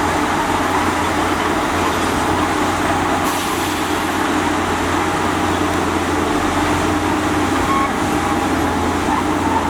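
Diesel engine of heavy earthmoving machinery running steadily under load, a constant low engine drone with a rough, noisy edge.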